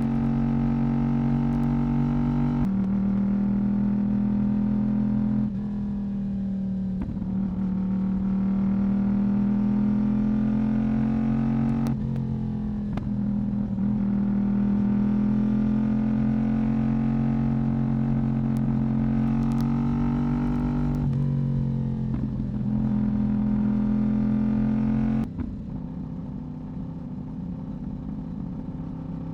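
Yamaha YZF-R1 inline-four engine and exhaust under way: a steady engine note that climbs slowly with speed, with gear changes marked by pitch steps roughly every nine seconds. About 25 seconds in the throttle closes and the sound drops to a quieter, lower note.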